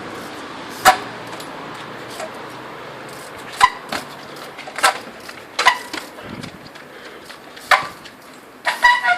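A trials bike hopping onto obstacles: a series of sharp metallic clanks with a brief ring, irregularly spaced, with a quick double knock near the end.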